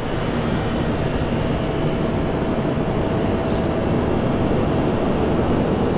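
Steady low rumbling drone with a faint, even hum running through it: the background noise of a city rooftop.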